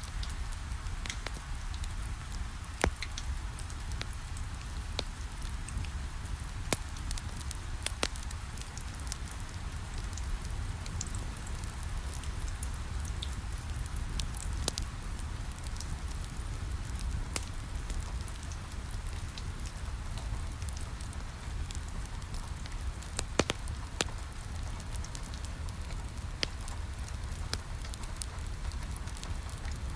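Rain pattering steadily on a window, mixed with a fireplace crackling, with scattered sharp pops a few times.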